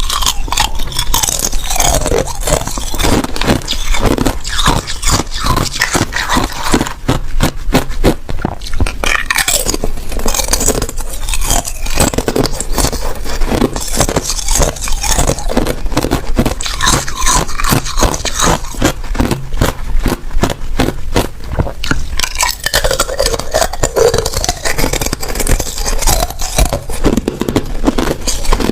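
A person biting and chewing ice: a dense, continuous run of loud crunches and crackles.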